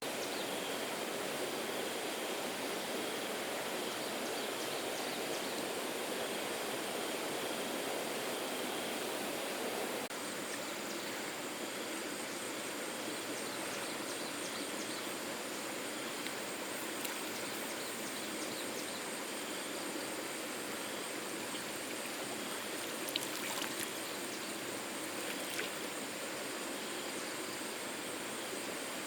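Steady rush of flowing water, a little quieter after an abrupt change about a third of the way in, with a faint high steady whine and a few small clicks later on.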